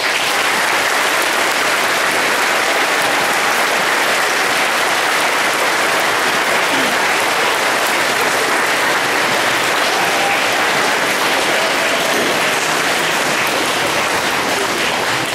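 A large audience applauding, dense and steady, starting at once at the end of a speech.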